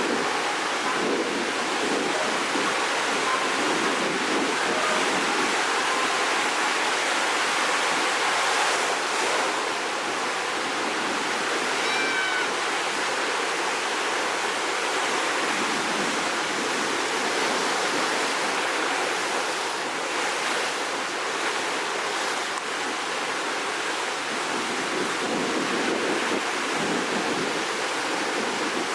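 Rough, storm-stirred sea: surf washing in as a steady rush of water noise, with no single crash standing out. A faint brief chirp about twelve seconds in.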